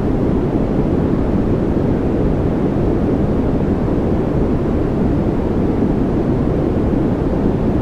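Steady sleep-noise track: an unbroken, even rush of noise, deep and muffled rather than a bright hiss.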